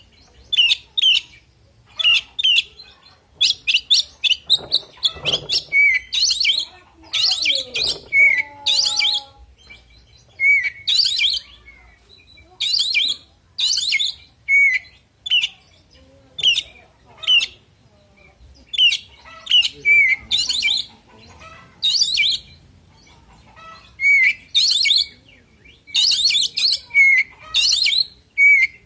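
Oriental magpie-robin (kacer) singing a loud, varied song: short whistled phrases, many opening on the same lower note, repeated every second or two in busier runs between brief pauses.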